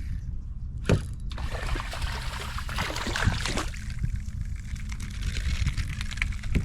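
Water splashing and trickling close beside a kayak, with a sharp knock about a second in.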